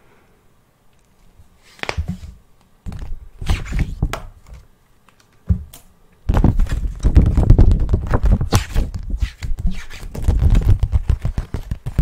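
Close-miked ASMR trigger sounds: a few scattered knocks, then from about six seconds in a dense run of rapid clicks and thuds.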